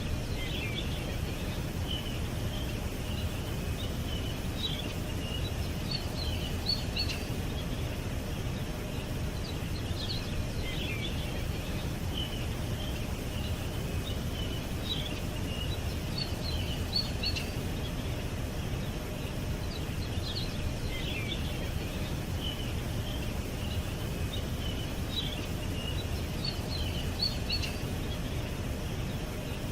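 Small birds chirping and twittering in short, scattered calls over a steady low background rumble.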